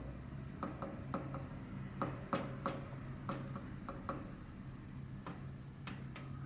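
Sharp taps in small groups of two to four with short pauses between: a budgerigar tapping its beak against its cage, copying a rhythm tapped out by a finger, over a steady low hum.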